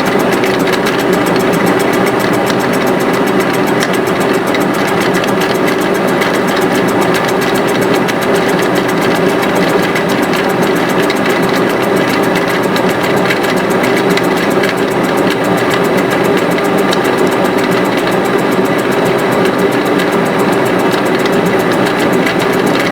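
A small workshop machine running steadily and loudly, with a fast, even ticking rattle, as a cylinder head's valve seats are worked.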